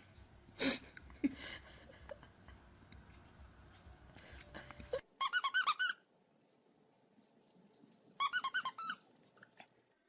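Two short bursts of rapid, high, repeated squeaks, each under a second long and a few seconds apart, heard in a dog clip. Earlier, about a second in, there is a short sharp noise.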